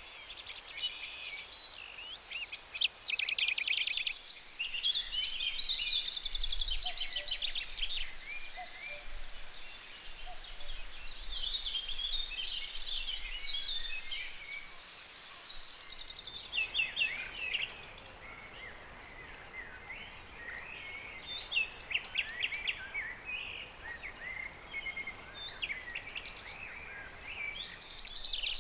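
Several songbirds singing and calling together, a dense mix of short chirps and rapid trills over a steady outdoor hiss.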